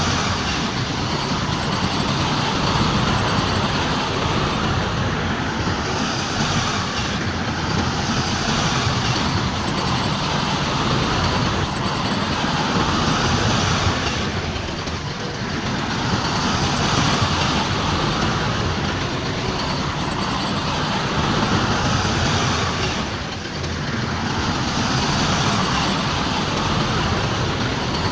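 Heavy diesel earthmoving machinery running steadily, a continuous engine and mechanical rumble that eases off briefly twice.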